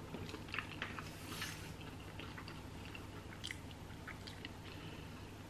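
A person chewing a mouthful of food quietly, with a scatter of small mouth clicks.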